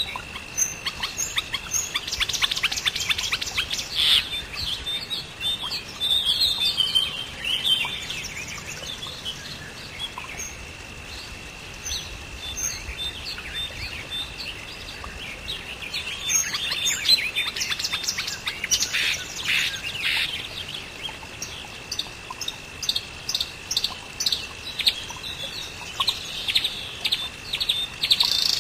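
Small birds chirping and twittering in quick runs of short notes, busiest around a few seconds in, again in the middle and near the end, over a steady high-pitched whine.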